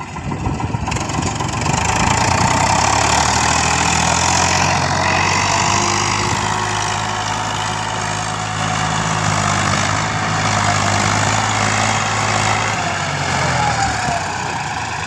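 Eicher 485 tractor's diesel engine running hard. It revs up about a second in, holds steady for about eleven seconds, then eases off near the end.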